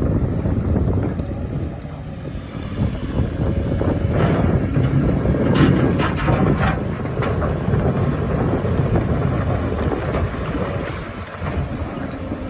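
Excavator's diesel engine running steadily under load, with a few short knocks and scrapes of the bucket working rock from about four to seven seconds in.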